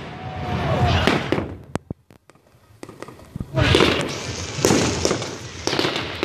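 Fireworks display: bursts and crackling of shells going off. A short lull about two seconds in, then a loud burst about three and a half seconds in, followed by more bursts.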